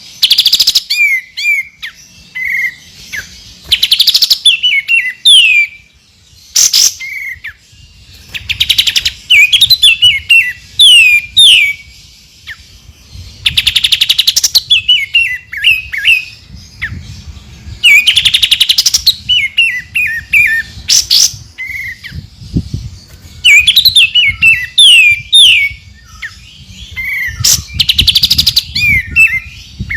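Songbird singing in a masteran tutoring recording of 'tembakan' calls for white-rumped shamas: quick runs of sharp, downward-slurred whistled notes, broken every few seconds by loud, buzzy rattling bursts.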